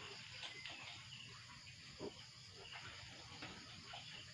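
Faint sounds of a sow and her newborn piglets in the pen: soft scattered squeaks and small ticks, with one brief click about two seconds in.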